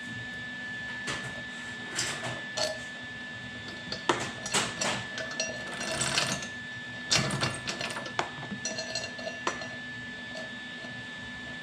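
Metal clicks, knocks and clatter of minibike parts and hand tools being handled and fitted, in irregular bursts for most of the stretch, with a steady high whine underneath.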